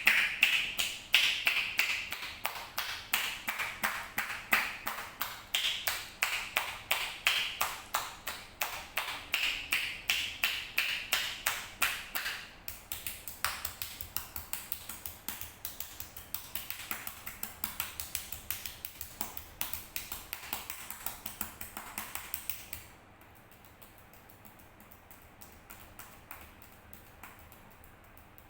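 Percussive hand massage: hands tapping rapidly and evenly on the body, several strikes a second, stopping sharply near the end.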